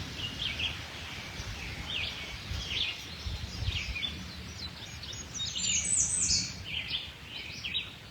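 Songbirds singing: short phrases of quick chirps, repeating every second or two and loudest about six seconds in, over low background noise.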